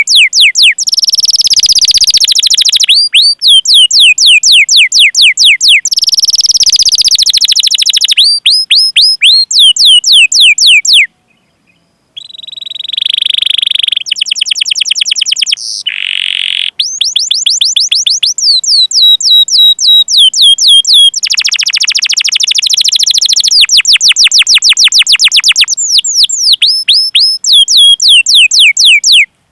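Domestic canary singing a long song: runs of sharp, falling 'cuit' notes, several a second, alternating with fast rolling trills. The song stops for about a second around eleven seconds in, then carries on.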